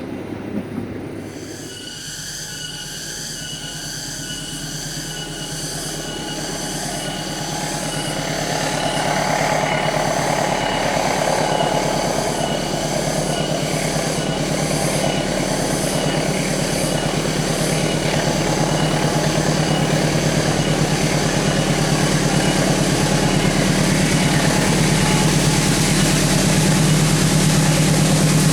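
Diesel locomotive hauling a train up a grade, its engine drone growing steadily louder as it approaches, with rail and wheel noise. A repeating high ringing tone sounds about once a second through the first part.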